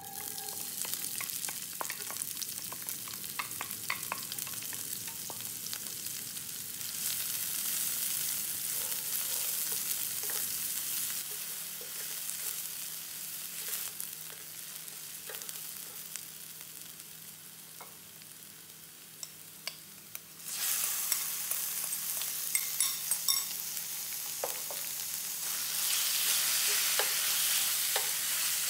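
Chopped onion sizzling in hot oil in a stainless steel frying pan, stirred with a wooden spatula that scrapes and clicks against the pan. About two-thirds of the way in, diced chicken goes in and the sizzle suddenly gets louder.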